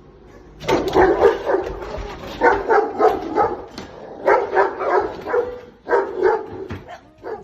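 A dog barking in quick runs of several barks, starting about a second in.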